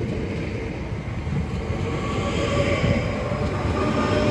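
Class 465 Networker electric multiple unit pulling out past the platform: a steady rumble of wheels on the rails with a faint steady whine from the traction equipment, growing slightly louder.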